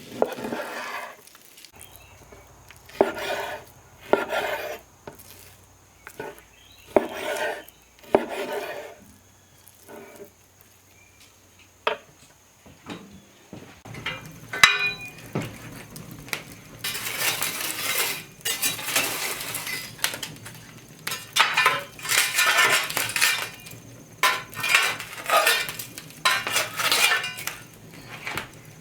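Utensils and cookware clinking and scraping during food preparation: a few separate strokes at first, then a busier run of scraping and clinking from about halfway.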